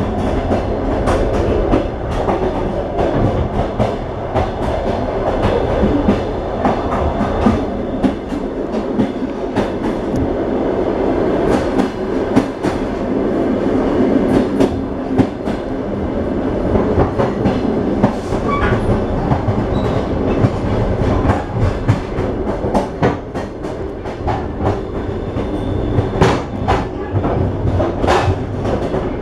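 Train running along the track: a steady rumble of wheels on rails with frequent sharp clicks and clacks as the wheels pass over rail joints.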